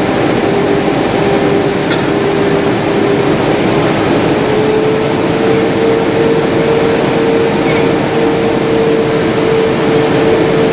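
Steady jet airliner cabin noise: engines and rushing air running loudly, with a hum tone that rises slightly in pitch about four seconds in as the engine power changes.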